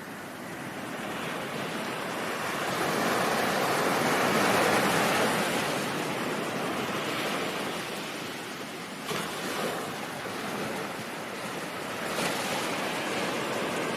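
Ocean surf: a wave surges, building to a peak about four to five seconds in and then washing back, with two brief sharp splashes later on.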